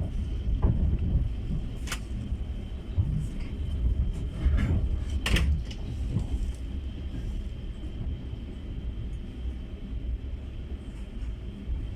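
Steady low running rumble inside a moving open-plan sleeper railway carriage, with two sharp knocks about two and five seconds in.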